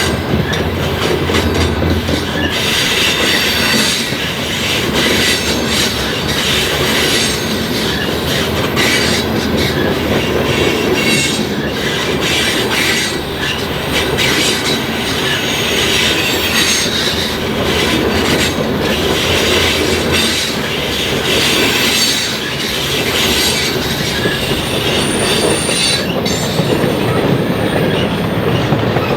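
Freight train cars rolling past close by: steady wheel-and-rail noise with repeated clicking of wheels over the rail joints.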